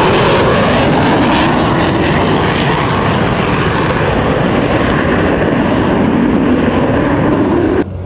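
Loud jet noise of a Mirage 2000D fighter passing, its pitch sliding steadily down and its treble fading as it moves away. It cuts off suddenly near the end.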